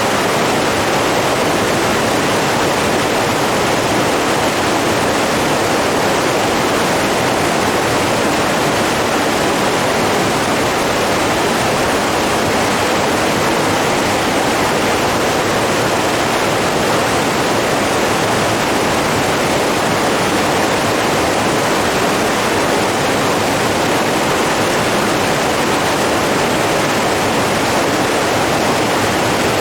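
Running water rushing steadily and evenly, without breaks or changes.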